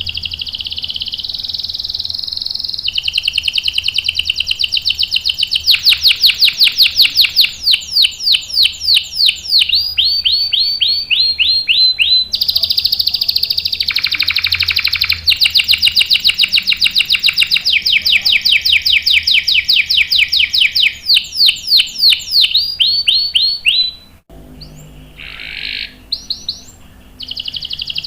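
Domestic canary singing long rolling trills: runs of fast repeated notes and quick sweeping phrases strung into one long song. The song breaks off briefly about 24 seconds in, then resumes.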